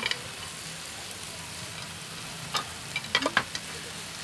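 Beef kidney and vegetables sizzling steadily in a hot frying pan on a portable gas stove while they are stirred. Utensils click against the pan and bowls at the start and a few times around the three-second mark.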